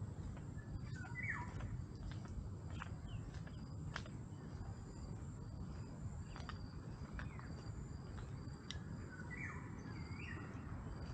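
Birds calling outdoors: short pitched calls about a second in and again near the end, over a thin high chirp repeating roughly once a second and a steady low background rumble.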